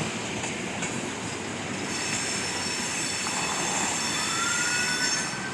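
Train rolling past a road crossing: a steady rumble of wheels on rail, with a thin high wheel squeal that comes in a few seconds in and rises slightly in pitch.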